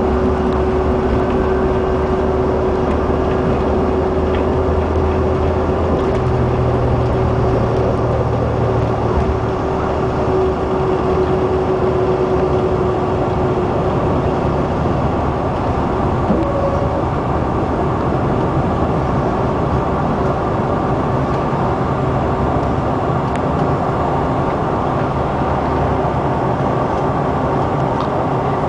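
Cabin noise of a CRJ-700 regional jet, its rear-mounted turbofans running with a loud, steady rush, and a steady whine that fades out about halfway through.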